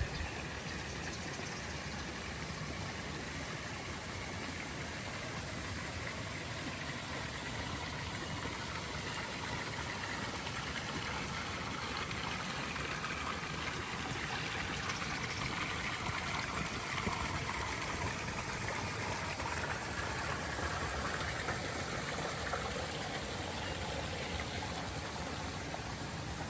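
Running water, a steady rush like a stream, growing a little louder through the middle and easing again near the end.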